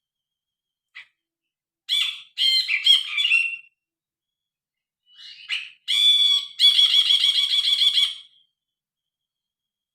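Brinji kelabu, a bulbul, singing in two bursts of loud, varied chattering song: a short phrase about two seconds in and a longer, rapidly repeated phrase about six seconds in.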